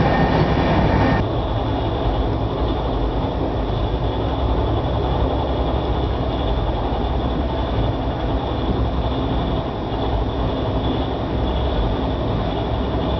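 Indian Railways sleeper coach of the Magadh Express running at speed, a steady rumble of wheels and running gear heard from inside the coach. About a second in, the sound turns duller and stays even.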